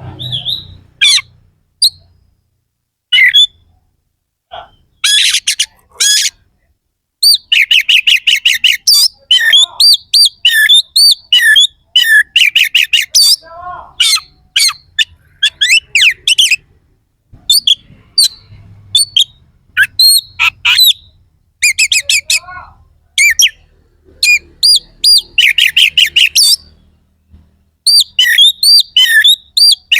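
Oriental magpie-robin (kacer) singing loudly in bursts of rapid, harsh, sharp notes (the "shots" of its song), with short gaps between phrases and a few lower sliding whistles.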